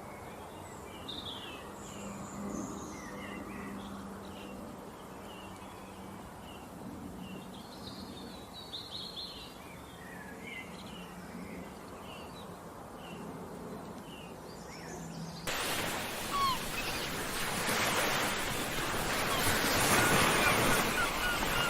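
Small birds chirping and singing in short, varied calls over a faint steady hum. About fifteen seconds in, it cuts abruptly to a loud rushing of water that grows louder.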